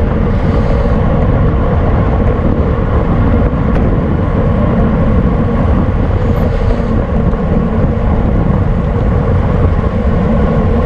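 Steady wind rushing over the microphone while riding a road bicycle at speed.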